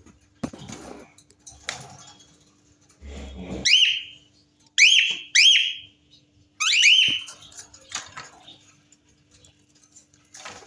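Cockatiel giving a run of about five loud, high-pitched whistled calls between about four and seven seconds in, the last two run together, with soft scuffling between them.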